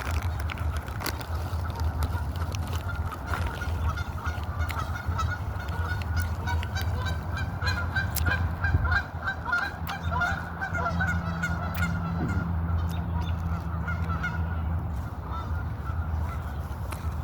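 A flock of birds calling, many short calls overlapping in a continuous chatter, over a steady low hum.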